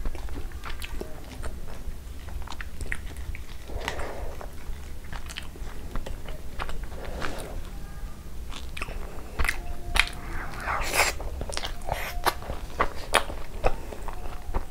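Close-miked eating sounds: a person biting and chewing Indian sweets, with wet mouth clicks and smacks that come thicker in the second half.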